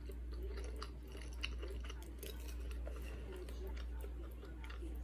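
A person chewing a mouthful of jajangmyeon (black bean noodles) close to the microphone, with many small wet mouth clicks.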